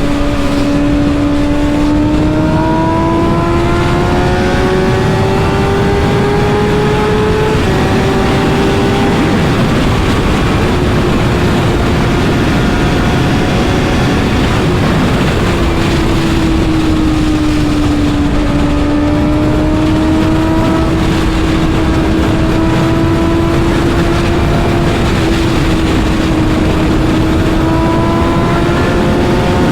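Suzuki GSX-R1000R's inline-four engine running at a steady, high cruise. Its note drifts slowly up and down over several seconds, over a constant rush of noise.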